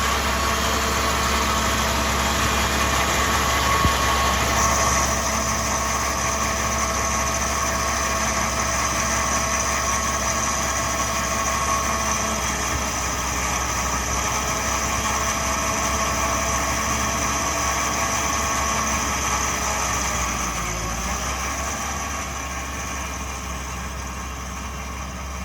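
Ford 6610 tractor's diesel engine running steadily and loud, dropping off near the end as the tractor moves away.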